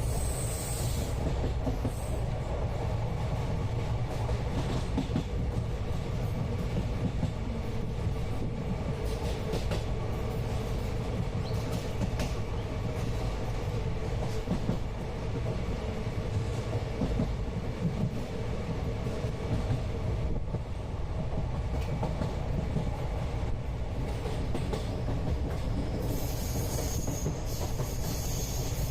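Indian passenger train heard from inside a coach, the wheels and carriage running with a steady rumble on the track. A high thin whine comes in near the end.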